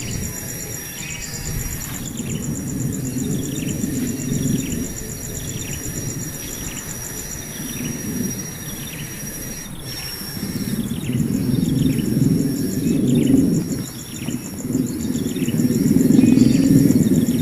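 Outdoor nature ambience: insects keep up a steady, fast-pulsing high trill while a bird gives short, falling chirps over and over, about once a second. A low rumbling noise swells after the middle and again near the end, where it is the loudest sound.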